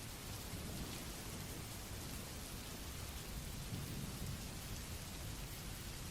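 Steady rain sound mixed with white noise, an even hiss, with a low rumble that swells twice underneath it.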